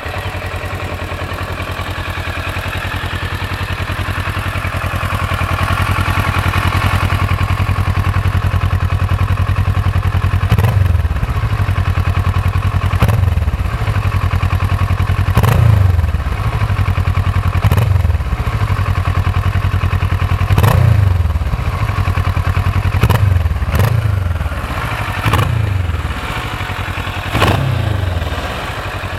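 2013 Kawasaki Versys 650's parallel-twin engine on its original stock exhaust, idling just after starting. From about ten seconds in, the throttle is blipped about nine times, every two to three seconds, each rev rising and dropping quickly back to idle.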